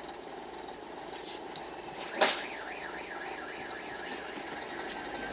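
A sharp bang about two seconds in, followed by a car alarm warbling rapidly up and down for about two seconds, over steady road noise.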